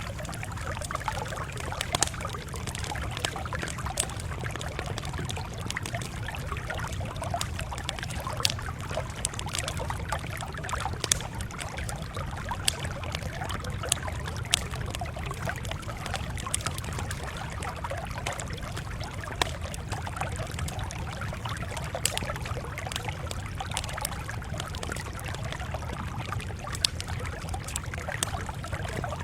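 Wood fire crackling: a steady low rush with irregular sharp pops and snaps every second or so.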